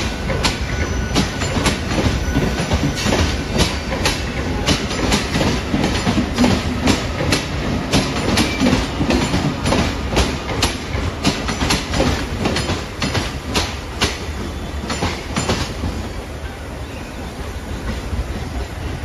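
Central Railway Mumbai suburban EMU local train running past, its wheels clattering over rail joints and points above a low rumble. The clatter thins out and the sound eases over the last few seconds.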